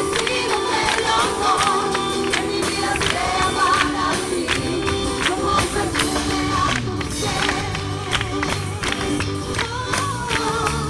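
Christian worship music: voices singing with vibrato over a steady tambourine beat and bass.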